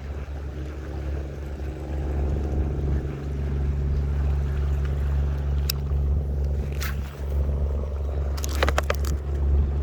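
Small boat engine running steadily at a low, even drone, with a few sharp clicks or knocks in the second half and a quick cluster of them near the end.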